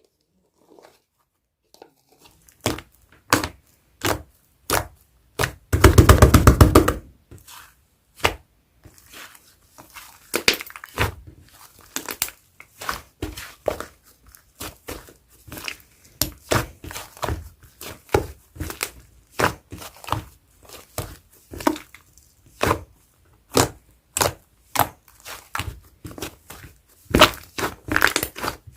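A fluffy green-and-white clay slime being squished and poked by hand, giving crisp clicking pops about once or twice a second. About six seconds in there is a second-long run of fast crackling, the loudest part.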